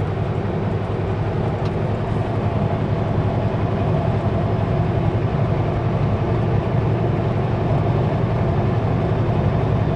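Kenworth W900L semi truck's diesel engine running steadily at highway speed, a continuous low drone with road noise.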